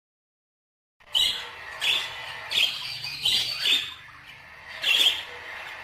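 Pet ornamental birds calling: a run of about six loud, harsh chirps and squawks, starting about a second in and repeating roughly every half to three-quarters of a second.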